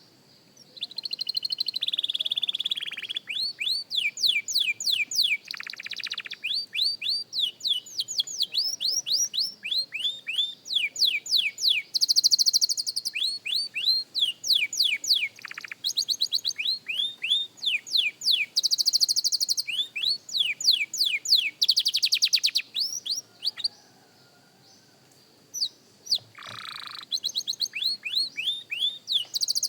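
A young canary singing practice song: tours of rapidly repeated, high sweeping notes alternating with fast buzzy rolls. The song starts about a second in and breaks off briefly about three quarters of the way through.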